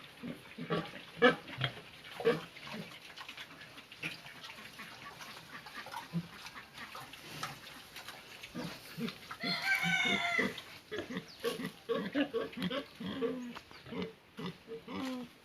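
Pigs grunting repeatedly in short, irregular grunts, with one louder, high, wavering call lasting about a second roughly ten seconds in.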